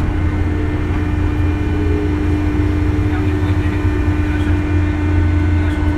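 JR 201 series electric train running, heard from inside the car: a steady low rumble of the wheels on the track with a steady humming tone over it.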